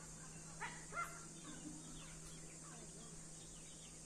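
Birds calling: two short, louder calls about half a second and a second in, and faint scattered chirps through the rest, over a steady low hum.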